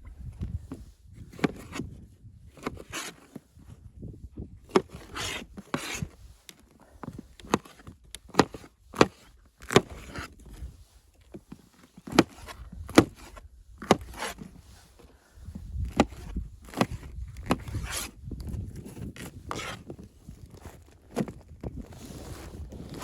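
Irregular sharp knocks and clicks, several close together at times, over an uneven low rumble.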